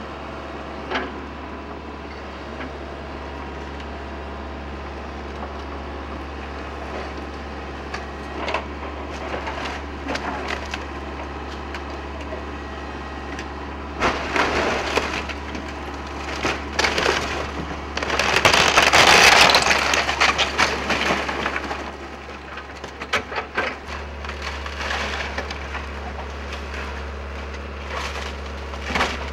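Excavator demolishing a wood-framed house: wood framing cracking and splintering in scattered snaps, then a long crashing tear about 18 to 21 seconds in as a section breaks away, over the machine's steady low diesel drone.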